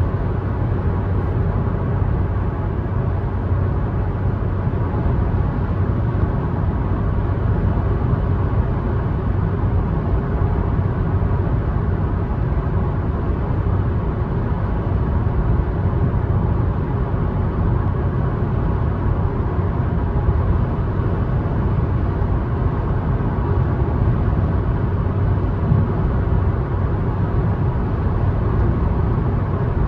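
Car driving along at a steady pace: an even, low rumble of engine and tyre road noise that holds constant throughout.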